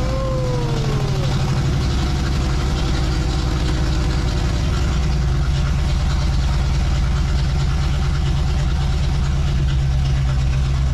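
Chevrolet 305 V8 with a throttle-body fuel injection unit, running just after its first start, heard from inside the car: it runs at a fast idle of about 1700 rpm that eases down toward about 1000 rpm. The high idle comes from the idle setting having been opened up too far.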